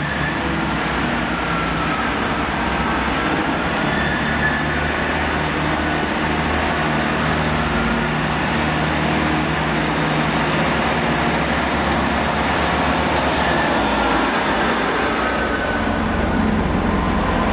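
Steady rumble and hum of trains at the platform: a GWR Turbo diesel multiple unit approaching slowly, beside a GWR Intercity Express Train. Faint wavering squeals come from wheels or brakes.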